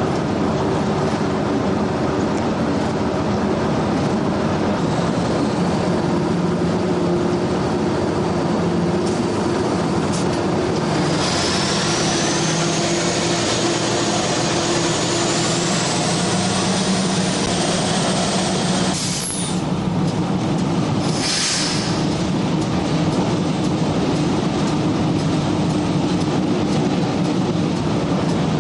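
Diesel freight locomotive running, heard from inside its cab: a steady engine drone under the noise of the wheels on the rails. Midway a high whine rises slowly in pitch for several seconds, then breaks off.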